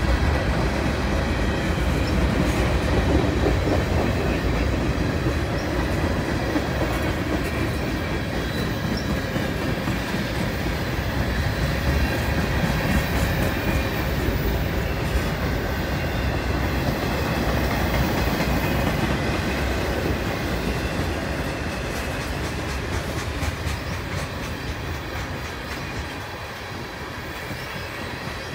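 Freight cars of a CN train, covered hoppers and tank cars, rolling past: a steady rumble of steel wheels on rail with clicks from the wheels and faint high wheel squeal. The sound eases off a little near the end.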